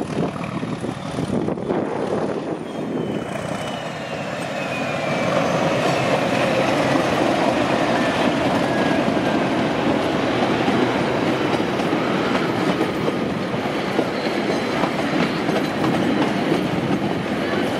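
A DG-class diesel-electric locomotive running as it approaches and passes close by, getting louder about five seconds in. Its train of carriages then rolls past with wheels clattering over the rail joints and some faint squeal from the wheels on the curve.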